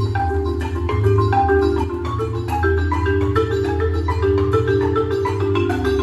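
Marimba soloist and marimba ensemble playing a continuous passage of quick struck notes over sustained low notes. The soloist is on softer mallets that give a darker, warm tone.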